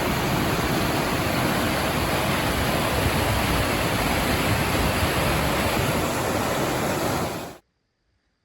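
Steady, loud rush of fast river water running through rapids, cutting off suddenly near the end.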